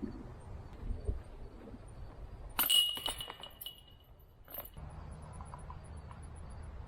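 A disc golf disc strikes a metal basket with a sharp metallic clink that rings for about two seconds, then a second, lighter clink. Wind rumbles on the microphone before and after the strike.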